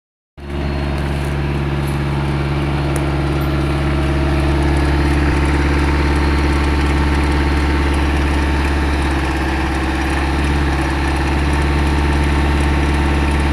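Yanmar engine on a TMX20 running steadily at idle, an even low drone that holds the same pitch.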